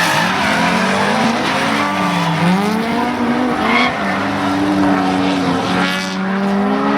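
Drift cars on track, their engines revving up and down through a run, with tyres squealing and skidding underneath.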